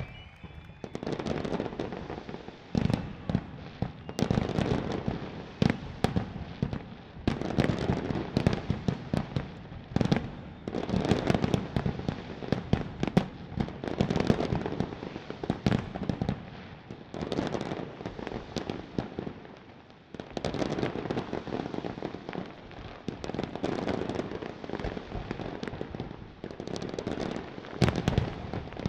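Fireworks display: dense, rapid salvos of bangs and crackling shells that start about a second in, ease off briefly about two-thirds through, then build again.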